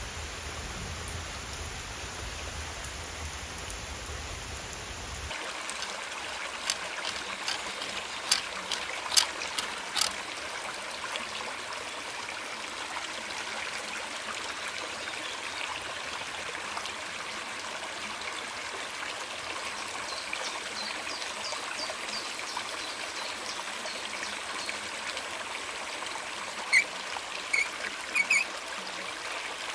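Water running and trickling steadily. About five seconds in the low rumble drops away, and after that scattered sharp taps sound over the water.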